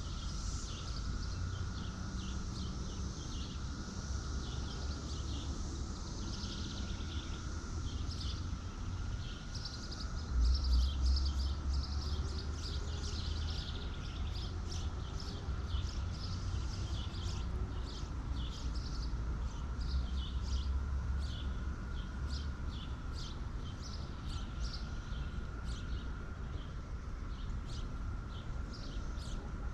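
Birds chirping in many short, quick high notes over a steady faint high tone and a low rumble that swells about ten seconds in.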